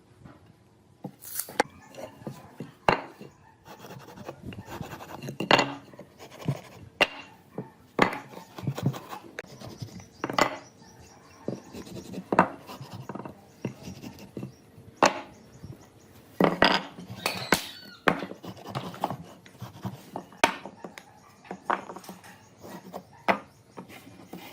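Irregular wooden knocks, taps and short scrapes, with several louder knocks in the middle stretch: wood pieces and hand tools being handled.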